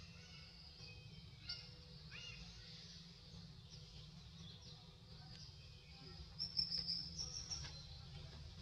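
Birds chirping, short high calls scattered throughout and a louder run of them about six and a half seconds in, over a steady low rumble.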